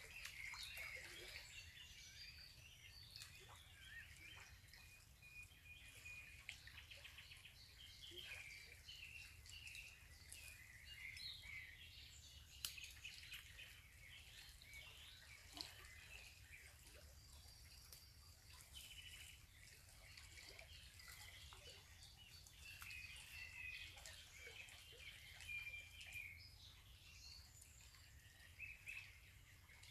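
Faint woodland birdsong: many short chirps and trills from small birds throughout, over a low steady background hum of the stream and the open air, with a couple of sharp clicks near the middle.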